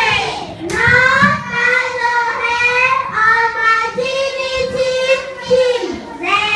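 Young children's voices singing a sing-song line together, with long held notes near the end.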